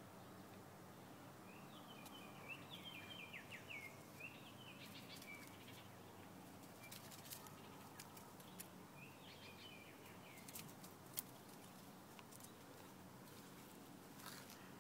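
Faint outdoor quiet with a small bird twittering in quick chirpy phrases, twice, and a few sharp faint clicks, the loudest about eleven seconds in.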